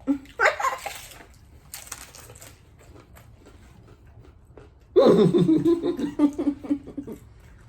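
Hard-shell tacos being bitten and chewed, with crunching early on, then about two seconds of a person's drawn-out, wavering voice, more like laughing or humming than words.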